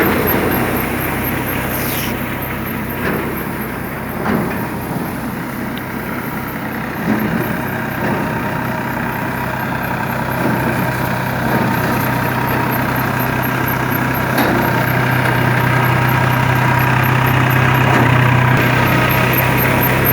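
New Holland tractor's diesel engine running steadily, its low hum growing stronger about two-thirds of the way through.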